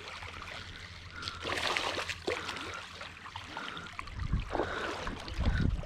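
River water trickling and gurgling, with scattered small clicks and a few low knocks in the last two seconds.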